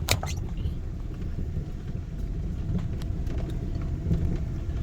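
Car cabin noise while driving on a rough unpaved road: a steady low rumble of engine and tyres, with a few sharp rattles and clicks at the start and fainter ones about three seconds in.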